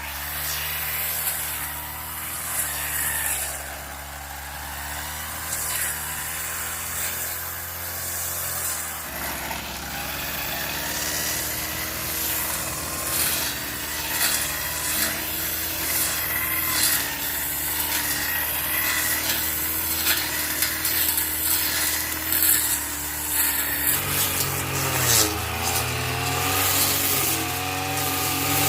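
An engine-driven machine running steadily, its pitch and load shifting a few times and dipping then rising near the end, with rasping and scraping over it.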